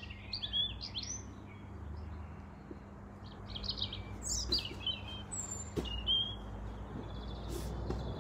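Small birds chirping and tweeting: a quick run of short, high calls in the first half, thinning out to a few scattered chirps later, over a faint steady low hum.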